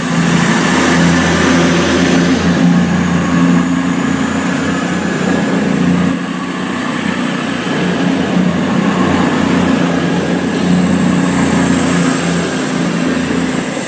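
Class 221 Super Voyager diesel-electric multiple unit pulling away, its underfloor diesel engines running loudly under power with a steady deep drone and a thin high whine over it.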